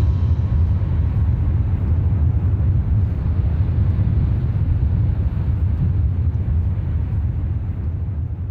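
Jet airliner's engines making a deep, steady rumble; the higher part of the sound slowly thins out and the whole rumble fades near the end.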